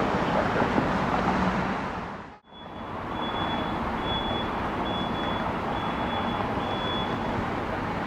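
Steady roar of jet aircraft engine noise at the airport, which fades out briefly about two and a half seconds in and comes back. After that, a high electronic beep sounds six times in an even rhythm.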